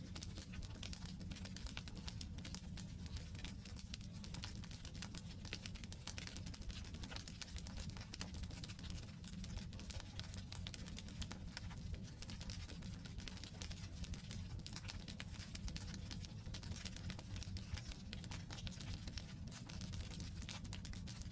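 Wood campfire burning: a dense, irregular stream of small crackles and pops from the logs over a steady low rumble.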